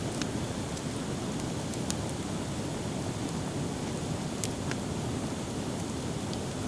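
Driftwood campfire crackling, with a few sharp pops at the start, about two seconds in and twice around four and a half seconds, over a steady low rushing noise.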